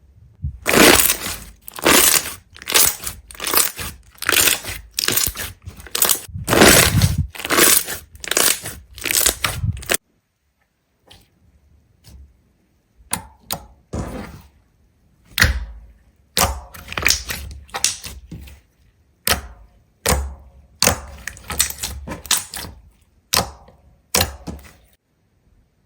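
Crunching and cracking of something brittle being broken or crushed: a dense run of crunches for about ten seconds, then after a short pause a sparser series of sharp cracks and crackles.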